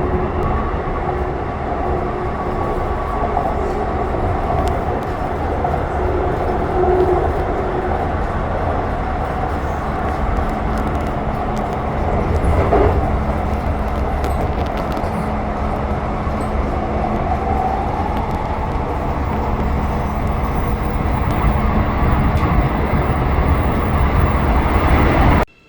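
Steady running noise of a train heard from inside the carriage: a continuous rumble with a faint steady hum. It cuts off abruptly near the end.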